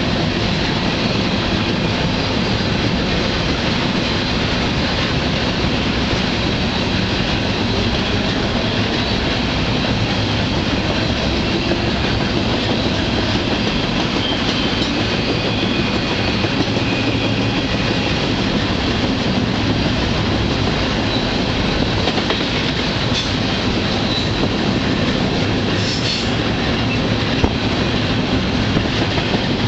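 Freight train rolling along, heard from aboard a car: a steady, loud rumble and rattle of wheels and cars on the track, with faint high whining tones and a couple of sharp clanks near the end.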